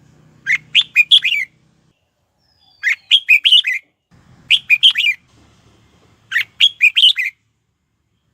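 Red-whiskered bulbul singing: four short phrases of quick, sweeping whistled notes, each about a second long, separated by pauses of a second or so.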